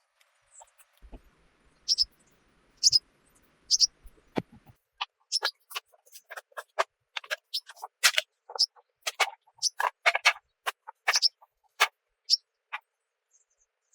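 Irregular sharp taps and clicks: a few about a second apart at first, then two or three a second through the middle, thinning out near the end.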